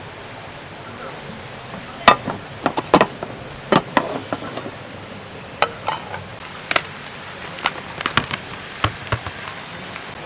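Irregular sharp clicks and knocks of cooking utensils and cookware being handled, about a dozen over several seconds, over the steady rush of a nearby stream.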